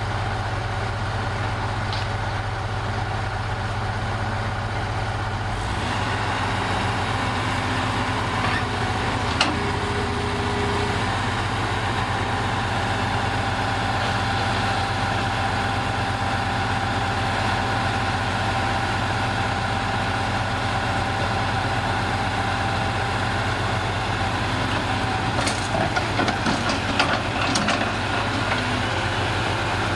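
Heavy diesel engine idling steadily, with a few sharp metallic clicks and knocks, one about a third of the way in and a cluster near the end.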